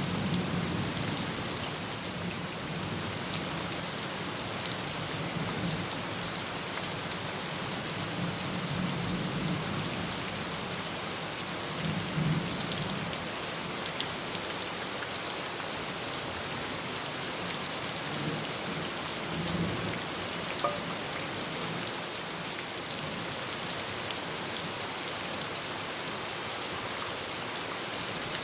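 Heavy rain falling steadily on a tin roof, with low rumbles of thunder coming and going, mostly in the first half.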